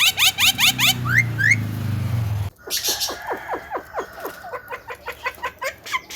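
Songbird calls from a spliced tutor recording. First comes a fast run of rising chirps. After an abrupt cut at about two and a half seconds, a quick series of falling notes follows, then short repeated chirps.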